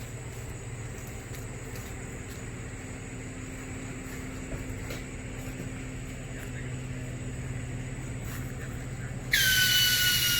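Steady low drone of a vehicle driving down the road, with a few faint knocks. About nine seconds in, a loud high whine cuts in suddenly, drops a little in pitch and then holds steady.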